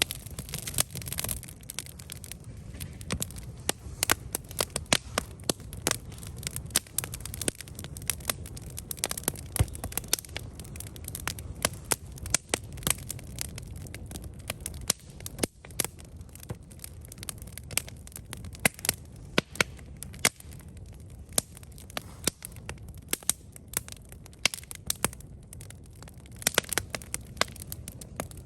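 Wood campfire burning, with frequent sharp irregular crackles and pops over a steady low rumble of the flames.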